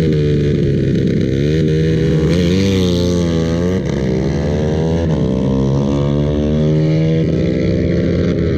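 Several motorcycle engines running and revving at once, their pitches rising and falling against one another.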